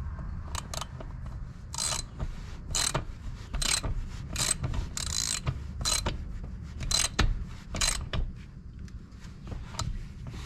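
Stihl MS390 two-stroke chainsaw's recoil starter being pulled over and over, a short rasping whirr with each pull about once a second, with no steady engine note between the pulls.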